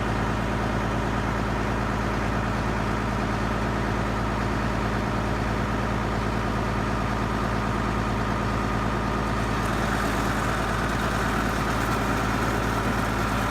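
1985 Case IH 2096 tractor's diesel engine running steadily at an even speed, with a little more hiss from about ten seconds in.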